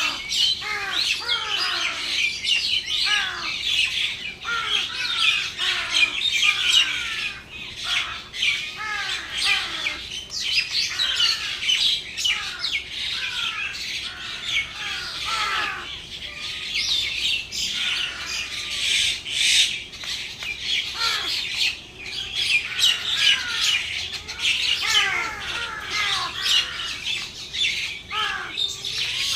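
A flock of birds calling together: a continuous chatter of many overlapping short chirps and squawks, many of them sweeping downward in pitch.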